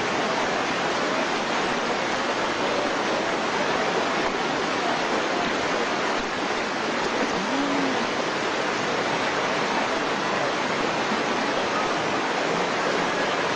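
Floodwater rushing steadily, an even roar of moving water.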